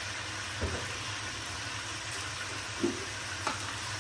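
Chicken pieces sizzling steadily as they fry in oil in a stainless steel wok, with three light knocks, about a second in and twice near the end.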